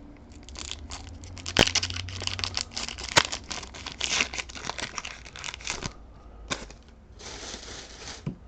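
Foil booster-pack wrapper crinkling and being torn open by hand: a run of sharp crackles and rustles, with a smoother rush of noise about seven seconds in.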